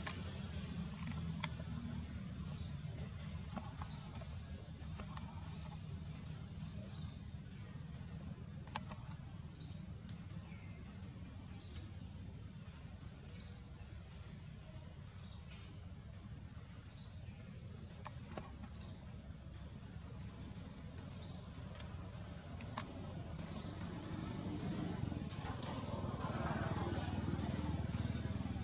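A bird repeating a short, high chirp about once a second over a steady low rumble of outdoor background noise, with a few faint clicks; the background grows louder near the end.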